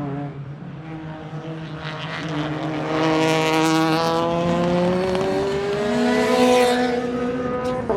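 Peugeot 208 Rally4's 1.2-litre turbocharged three-cylinder engine accelerating hard, its pitch climbing steadily for several seconds. Near the end there is a short sharp crack and the pitch drops suddenly at a gear change.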